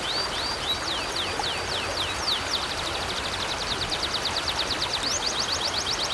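River water flowing steadily, with a songbird singing a long series of high, quick slurred notes that speed up into a rapid trill about two and a half seconds in.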